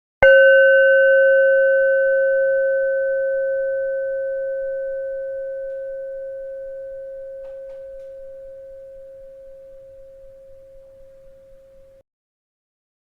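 A bell struck once, ringing one clear note with a few higher overtones that fades slowly over about twelve seconds, then cuts off abruptly.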